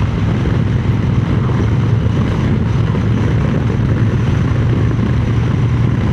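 Wind buffeting the microphone over the steady drone of a Triumph Speed Twin 900's parallel-twin engine, ridden at a steady road speed.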